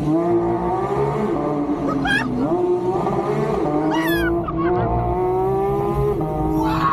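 The Porsche 992 GT3's naturally aspirated flat-six, heard from inside the cabin, pulling under load. Its pitch climbs and drops sharply at upshifts, about two seconds in and again near the end. Short excited whoops from the driver come around two and four seconds in.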